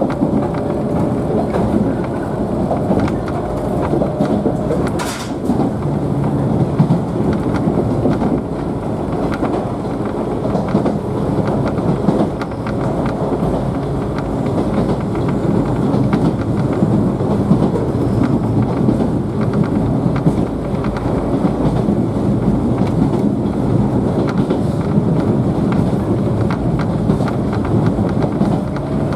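JNR 113-series electric train running at speed, heard from inside the motor car: a steady rumble of traction motors and wheels on the rails, with one sharp click about five seconds in.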